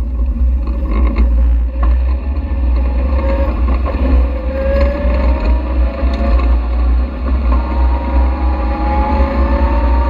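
Caterham Seven's engine accelerating, its note climbing in several rising sweeps as it pulls away through the gears, over a heavy low rumble. There are a few sharp clicks in the first two seconds.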